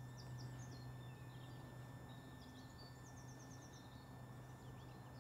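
Faint birdsong: small birds chirping on and off, with a quick run of high notes about three seconds in, over a low steady hum.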